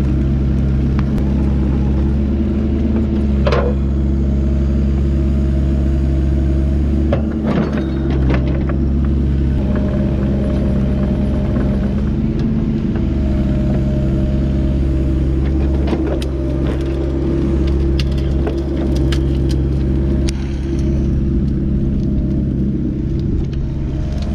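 Kubota excavator's diesel engine running steadily, with a few sharp knocks and cracks about 3, 7 and 16 seconds in.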